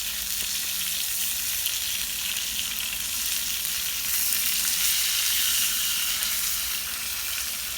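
Meat sizzling and crackling as it fries in a pan over a campfire, a steady spitting hiss that swells a little in the middle.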